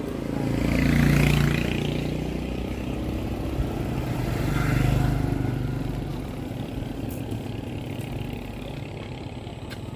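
Motor vehicles passing close by, the engine noise swelling twice, about a second in and again near the middle, then easing to a steady rumble.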